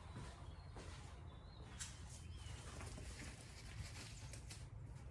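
Faint room tone with a steady low hum, a few light clicks and a couple of faint high chirps.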